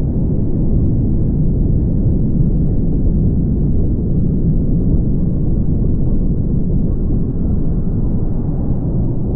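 Steady low rumble of a car driving along: tyre and engine noise with no breaks or sudden sounds.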